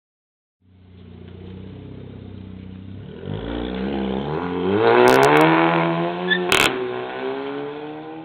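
Car engine running steadily, then revving up from about three seconds in, its pitch climbing and staying high as the car accelerates; a few sharp cracks near the loudest point.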